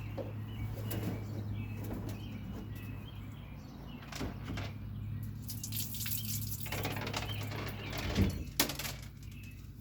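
Something loose sliding and knocking around inside a plastic Sun Dolphin kayak hull as the kayak is rocked, with a few sharp knocks, the loudest two about 8 seconds in. It points to a large loose part inside the hull, which the owner guesses is a seat support that has come free.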